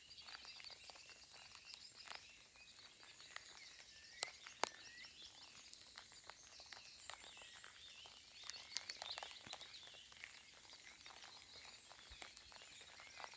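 Faint outdoor ambience of soft rain, with scattered raindrop ticks and small birds chirping now and then, a little busier about 8 to 9 seconds in.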